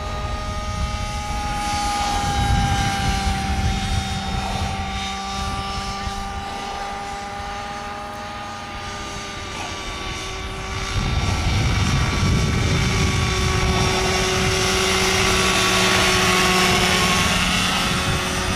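Vario Benzin model helicopter's 23cc two-stroke gasoline engine and rotor buzzing steadily in flight, the pitch drifting a little up and down. It grows louder from about eleven seconds in.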